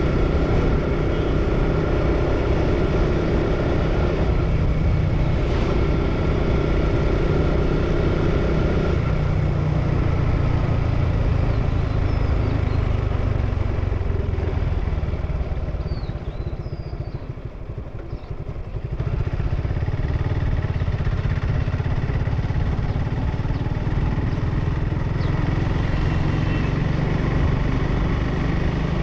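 Suzuki Gixxer motorcycle's single-cylinder engine running through its stock exhaust while riding. About fifteen seconds in, the engine sound drops away for a few seconds, then comes back at its earlier steady level.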